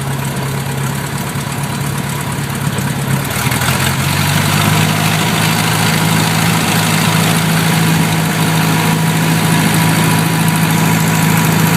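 A 1967 Cessna 150's four-cylinder Continental O-200 engine and propeller running at low taxi power. It speeds up slightly about four seconds in, then holds steady.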